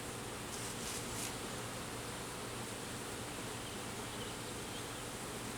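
Honey bees buzzing around an opened hive box as its frames are worked through, a steady hum.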